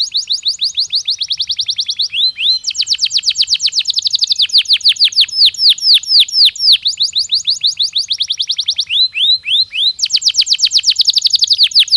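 Canary singing a continuous song made of fast trills of sharply falling whistled notes. The song switches between quicker and slower rolls every couple of seconds, with a short break about two seconds in.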